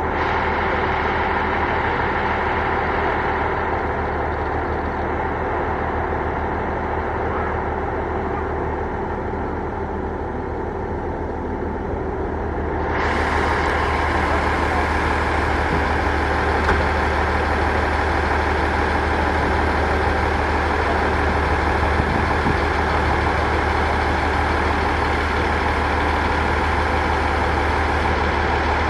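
Diesel railcar's engine idling steadily with a deep hum. About thirteen seconds in it gets louder and harsher.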